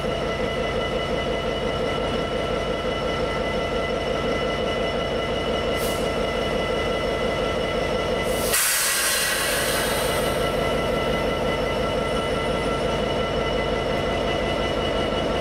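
Train at the station: a steady rumble under a whine of several held tones. A sudden hiss about eight and a half seconds in fades over a couple of seconds.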